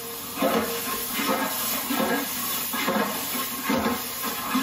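Chopped tomatoes and onions sizzling in hot oil in a large pot, with a ladle stirring them in repeated strokes.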